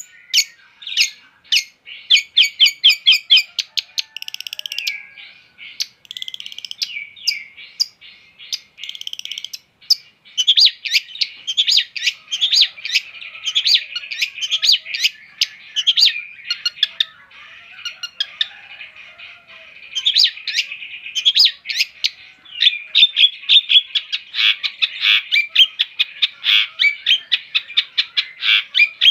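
Long-tailed shrike (cendet) singing: long, high-pitched runs of fast repeated chattering notes, broken by a few longer buzzy phrases.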